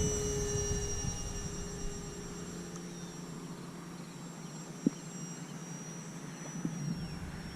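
Electric motor and propeller of a radio-control Cessna TTX model plane in flight: a high, steady whine with a fainter lower tone, fading over the first few seconds as the plane moves away. A single sharp click sounds just before the middle.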